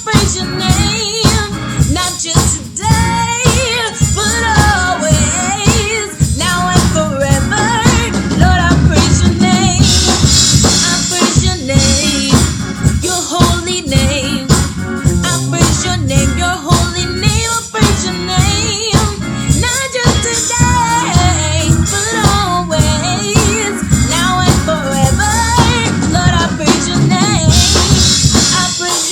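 Live gospel praise-and-worship song: singers carrying the melody over a band, with a drum kit keeping a steady beat.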